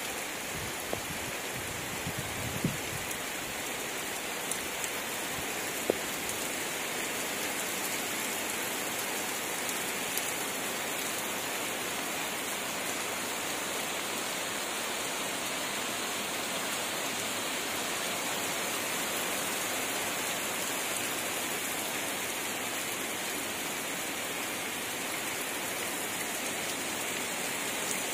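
Heavy rain falling steadily, a continuous hiss, with a few louder single drop ticks in the first several seconds.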